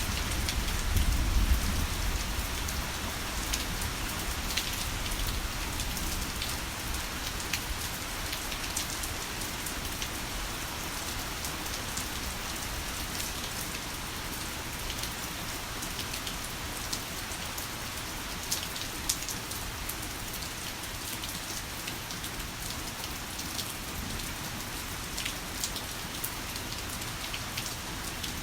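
Heavy rain falling steadily, with sharp drop hits scattered through it. A low rumble of thunder dies away in the first two seconds.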